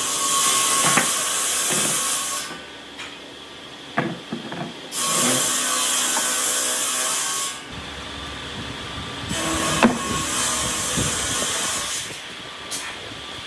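Compressed air hissing in three bursts of two to three seconds each, with wooden knocks and clicks in the gaps between them.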